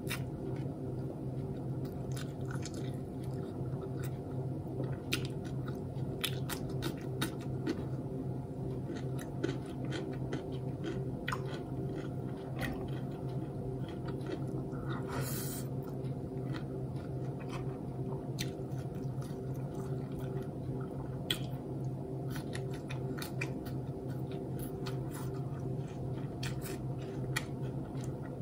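Close-miked chewing and biting of a person eating by hand, with many small irregular mouth clicks. A steady low hum runs underneath.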